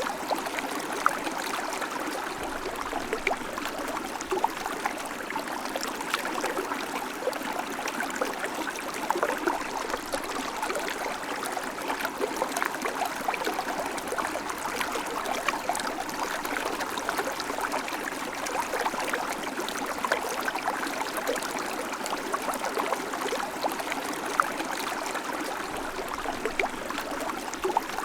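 River water flowing steadily over stones, a continuous rushing with many small splashes and trickles.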